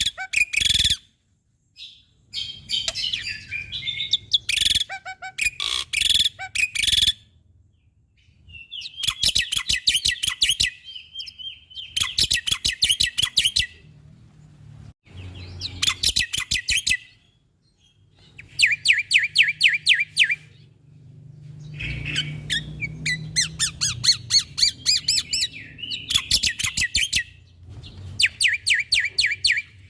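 Black-winged myna (jalak putih) singing: repeated bouts of fast, rattling chattered notes, each bout a second or two long with short pauses between.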